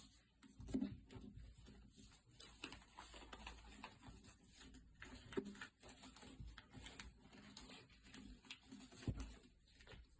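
Faint paper rustling and creasing as a sheet is folded by hand, with irregular small crackles and soft thumps on the table, the heaviest about a second in and again near the end.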